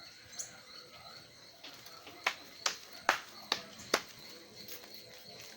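Five sharp knocks in quick succession, about two to three a second, in the middle, over a faint steady background.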